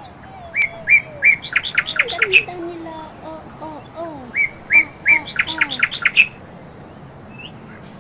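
A bird singing in two bouts of about two seconds each, each a run of quick chirps over lower sliding whistles.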